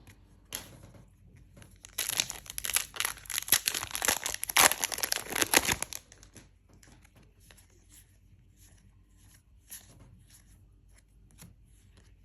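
Foil wrapper of a Disney Lorcana booster pack being torn open and crinkled, a loud crackle lasting about four seconds, followed by faint light ticks as the cards are handled.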